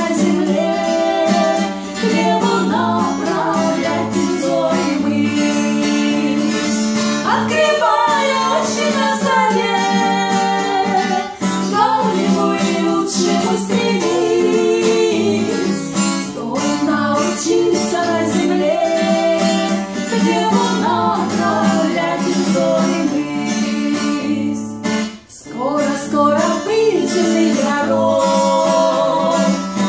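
A woman singing a slow Christian song in Russian over a strummed acoustic guitar, with a short pause between phrases near the end.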